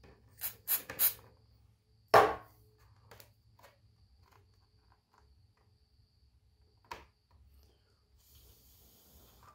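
Hard 3D-printed PLA plastic parts being handled and pressed together while being glued: a quick run of three clicks, a sharp knock about two seconds in, then scattered small ticks and a faint short hiss near the end.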